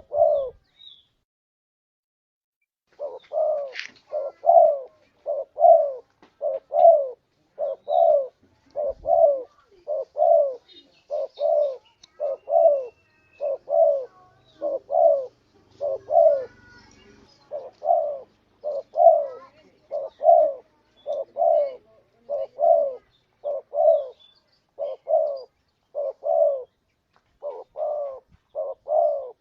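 Spotted dove (tekukur) cooing: a long run of short, low coo notes repeated steadily, a little more than one a second, starting after a brief pause about three seconds in.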